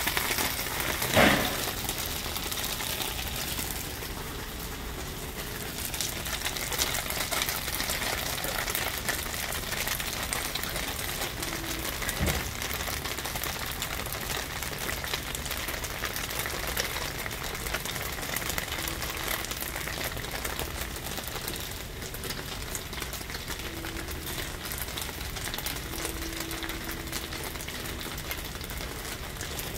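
Battered acorn jelly pieces sizzling and crackling in oil on a flat-top griddle. A metal spatula knocks against the griddle about a second in and again near the middle.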